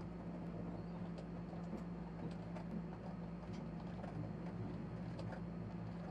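Light, irregular clicks of keys and clicking being worked on an ASUS laptop, over a steady low hum.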